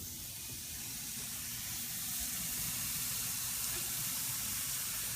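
Marinated chicken breasts sizzling on a hot grill: a steady hiss that builds slightly over the first couple of seconds.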